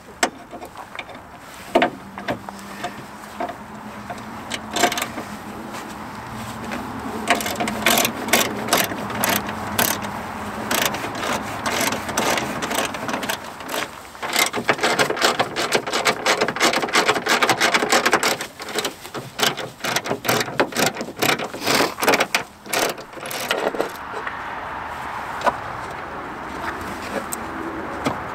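Socket ratchet clicking in quick runs as it turns the 7/16 bolts of a truck's battery hold-down bracket, with a few separate metal knocks in the first few seconds.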